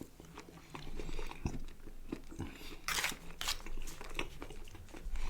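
Close-miked eating sounds: a mouthful of chicken kebab with hummus and sauces being bitten and chewed, with many small wet mouth clicks and two louder bursts about three seconds in.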